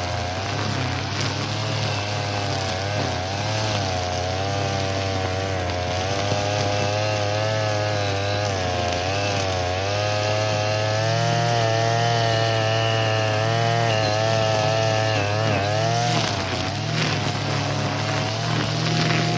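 Brush cutter's small engine running as its nylon trimmer line cuts weeds, the pitch wavering up and down with the load. It holds higher and steadier in the middle and drops briefly near the end before picking up again.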